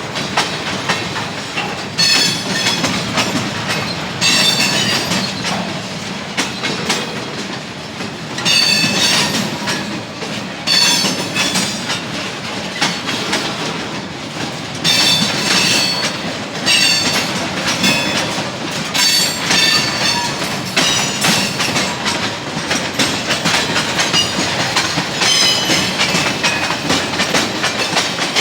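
CSX freight train rolling past, its wheels clattering over the rail joints. High-pitched squeals from the wheels come and go every second or two.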